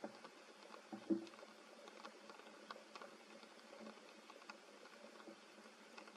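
Faint, scattered patter of raindrops dripping onto leaves, with two short knocks about a second in.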